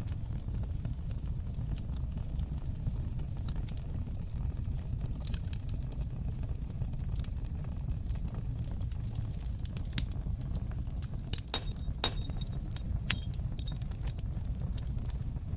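Wood fire burning in a fireplace: a steady low sound of the flames with scattered sharp crackles and pops, which come thicker around the middle and again toward the end. One loud pop stands out a couple of seconds before the end.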